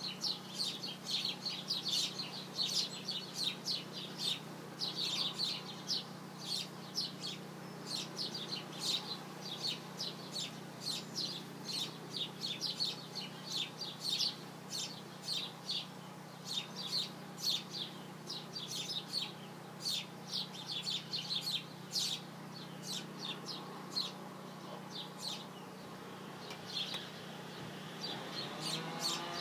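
Birds chirping in quick, short, repeated calls that keep up almost without a break, over a steady low hum.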